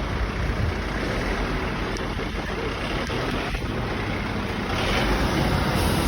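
Fire engines, an aerial ladder platform and a pump, driving off: a steady diesel engine rumble with road noise that grows louder about five seconds in.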